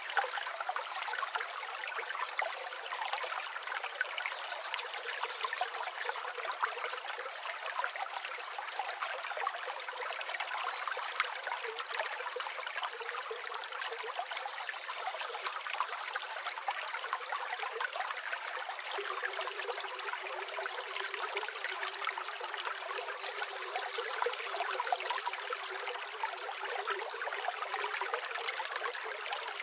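A river flowing over stones: steady, bubbling rush of water with fine splashes, with no low rumble.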